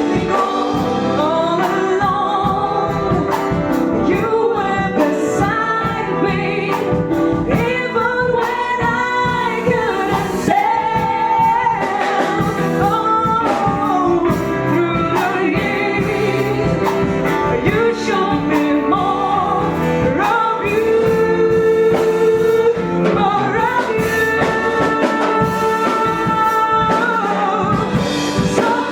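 Gospel choir singing with instrumental accompaniment and drums.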